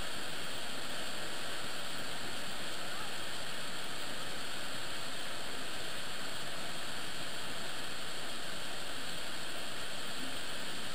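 Niagara Falls: falling water making a steady, unbroken rushing noise.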